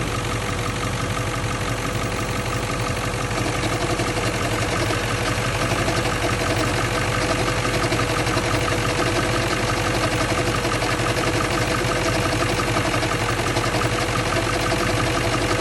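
1997 Ford F-350's 7.3L Powerstroke V8 turbo-diesel idling with a rattle and knock in it, over a steady whine. The owner says it almost sounds like a rod knock but is intermittent, and suspects it could be the flywheel or water pump.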